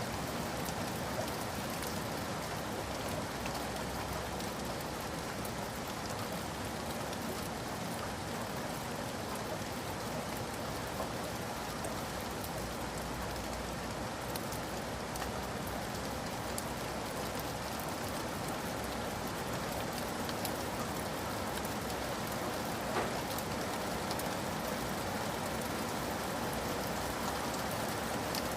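Steady rain falling, an even hiss with many small drops ticking on surfaces; one drop hits a little louder near the end.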